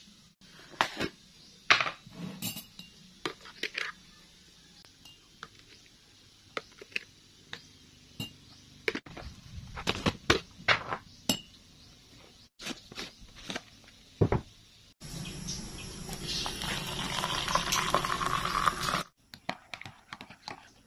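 Metal spoon clinking and scraping against a ceramic mug and plastic jars as powder is spooned in. About fifteen seconds in, liquid is poured into the mug for around four seconds, followed by a few clinks of stirring.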